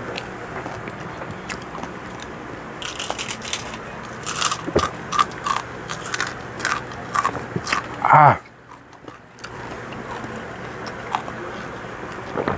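Crispy fried pork skin (chicharon) crunching as it is bitten and chewed close to the microphone, a quick run of sharp crunches through the middle. About eight seconds in, a man lets out a loud 'ah' that falls in pitch.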